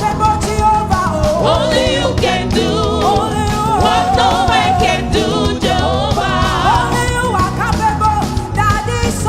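Gospel song: singers with vibrato over a full band accompaniment with a steady beat.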